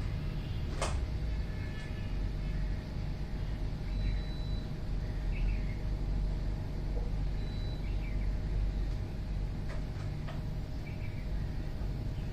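Small birds chirping faintly and briefly every second or two, with a couple of short high whistles, over a steady low rumble like distant traffic. A few sharp clicks stand out, one about a second in and two more near the end.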